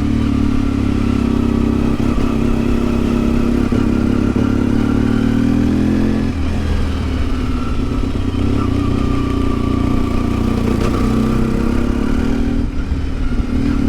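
1992 Yamaha XTZ 750 Super Ténéré's parallel-twin engine pulling steadily at low revs on a climb, with a short break in the note about six seconds in before it picks up again. The rider finds the engine very sensitive to the altitude when turning this slowly.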